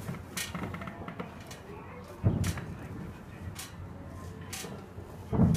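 Distant fireworks going off: two deep booms, one a little over two seconds in and one near the end, among scattered sharp cracks.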